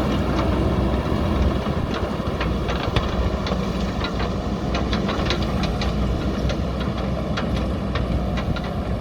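JCB backhoe loader's diesel engine running steadily under work, with many sharp clicks and clanks scattered through it, more frequent after the first couple of seconds.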